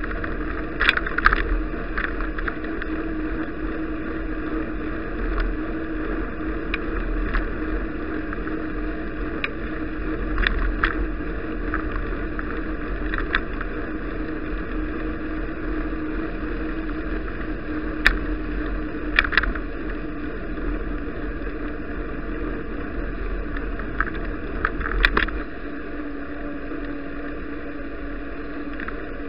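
Steady ride noise of a bicycle under way: wind and tyre rumble with a constant hum. A few short sharp clicks and rattles come through, clustered near the start, about two-thirds in and near the end, after which the noise drops slightly.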